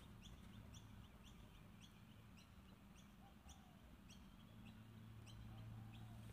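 Faint bird chirping: a run of short, high, rising chirps, about three a second, that stops about five seconds in. A low steady hum sits underneath and grows a little stronger in the second half.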